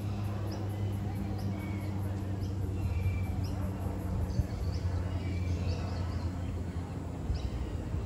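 Wild birds chirping, short high chirps repeating every half second to a second, over a steady low hum.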